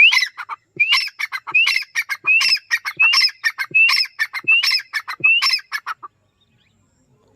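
Francolin (teetar) calling in a rapid repeated series of about eight loud harsh calls, each opening with a rising note, ending about six seconds in.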